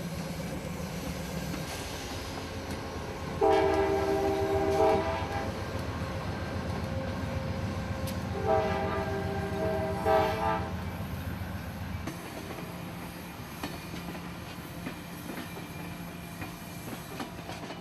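A diesel passenger locomotive at the head of Amtrak 92, North Carolina DOT unit NC1792, sounds its multi-note horn twice, about five seconds apart, each time for roughly two seconds. A steady low diesel rumble runs under the horn and drops off about twelve seconds in.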